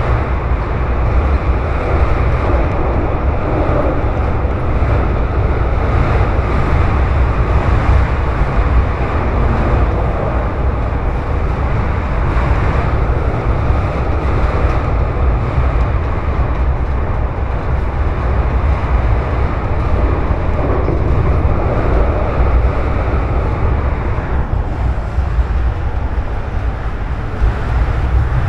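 Airport railway train running at speed, heard from inside the carriage: a loud, steady, deep rumble of the running gear on the rails under a dense hiss.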